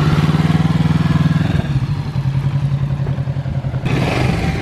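2020 Kawasaki Z650's parallel-twin engine running at slightly raised revs, then dropping to a lower, steadier note about one and a half seconds in, as a novice rider works its sensitive throttle.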